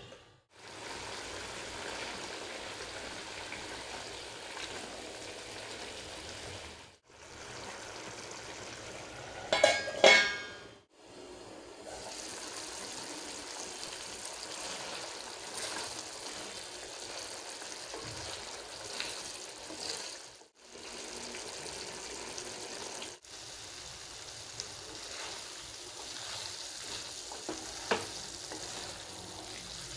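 Mutton pieces in masala gravy sizzling and bubbling steadily in a non-stick frying pan as the gravy cooks down to a dry chukka, with stirring, and the sound cutting out briefly several times. About ten seconds in there is a loud scrape with a ringing tone, and near the end a single sharp knock.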